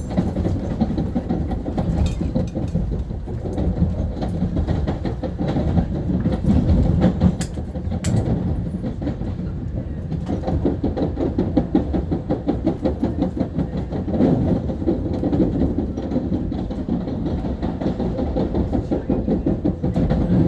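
Long Island Rail Road M3 electric multiple-unit train running along the track, heard from inside the car: a steady rumble of wheels on rail with a rapid clicking, and a couple of sharper clicks about seven and eight seconds in.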